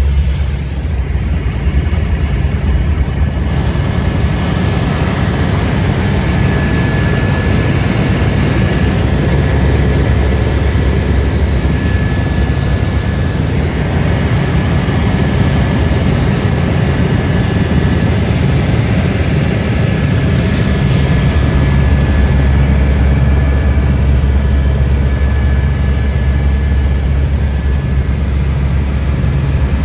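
Helicopter engine and rotor running steadily: a loud low drone with a thin, steady high whine above it.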